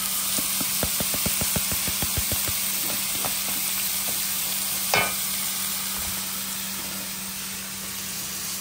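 Shallots, garlic and ginger sizzling in hot oil in a pan, stirred with a spatula: a quick run of scraping strokes in the first couple of seconds, then one sharper clank about five seconds in.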